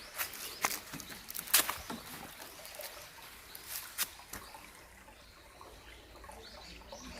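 Water trickling, with a handful of sharp clicks over the first four seconds.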